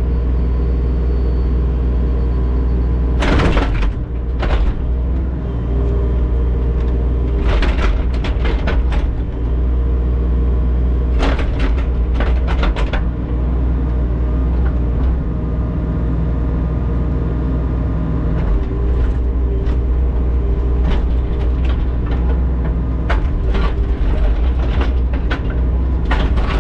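Compact digging machine's engine running steadily under load while its bucket rips through frozen ground, with clusters of sharp scraping and cracking knocks as the frost breaks out.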